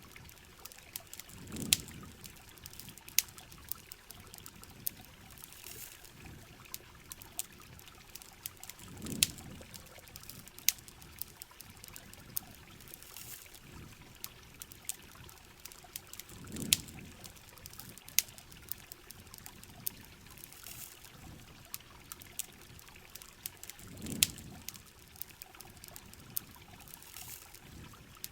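Heavy rain falling and trickling on a camping shell, with a campfire crackling: a steady hiss of water scattered with sharp pops and ticks, and a low swell that comes back about every seven and a half seconds.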